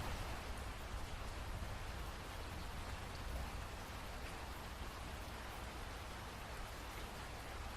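Steady rain falling, an even hiss of many drops with a low rumble beneath, having eased off just before and holding at a lighter level.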